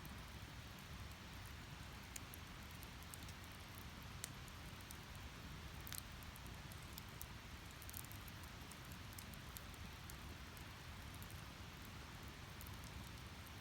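Wood fire crackling: a steady soft hiss of burning firewood with scattered sharp pops and ticks, a few louder pops about six and eight seconds in.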